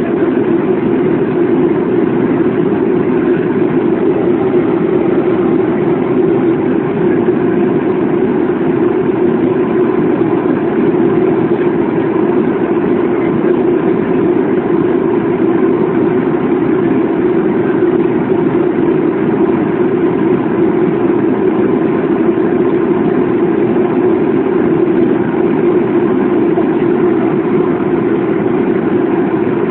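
Steady drone of a Boeing airliner's jet engines and rushing air heard inside the passenger cabin, unchanging throughout.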